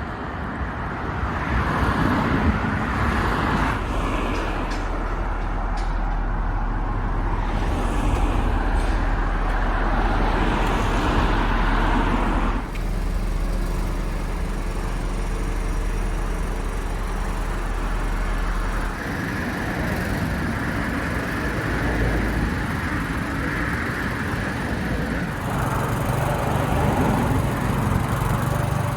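Road vehicle noise with heavy engines running and a steady low rumble. The sound changes abruptly about halfway through and twice more near the end.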